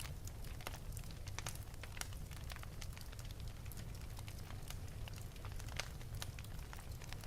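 Wood fire burning in an open fireplace, crackling with many sharp, irregular pops over a steady low rumble of the flames.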